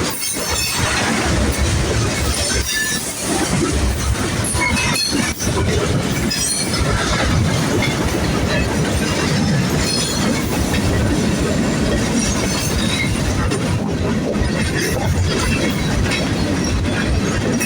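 Freight cars of a manifest train rolling past: a steady rumble of steel wheels on rail, with short high wheel squeals now and then.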